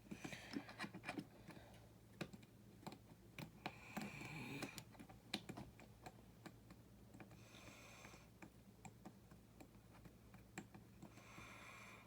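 Faint, irregular clicking and rattling of small plastic building-brick parts being handled, with a few brief rustles.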